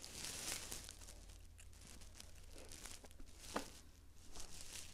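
Close-miked chewing of a salmon-avocado inside-out sushi roll: faint, wet mouth sounds with a sharper click about three and a half seconds in.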